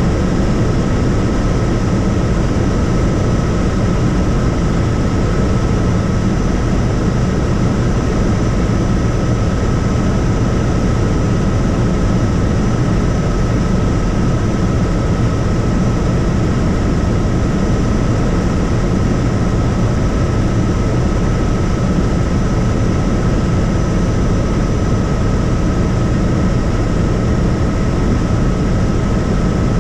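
Helicopter in steady flight, heard from on board: a loud, unchanging drone of rotor and engine with a constant thin whine above it.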